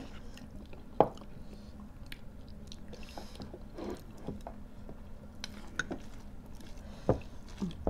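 Close-up eating sounds: wet chewing and mouth noises from people eating with their hands and spoons, with scattered small clicks and two sharp knocks, one about a second in and one near the end.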